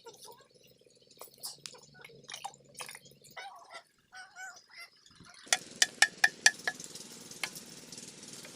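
Metal clinks and knocks as the 8 HP diesel water-pump engine is handled, then about five and a half seconds in the engine starts: a quick run of sharp knocks, about four a second, settling into a steady running noise.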